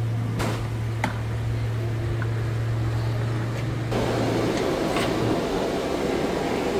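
A steady low machine hum with a few light clicks; about four seconds in, a rougher rumbling noise joins, and the hum stops about a second later.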